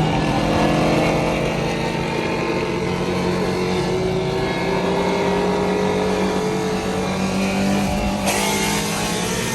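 Car engine running under steady load, its pitch climbing slowly as it gathers speed. About eight seconds in, a louder rush of noise comes in over it.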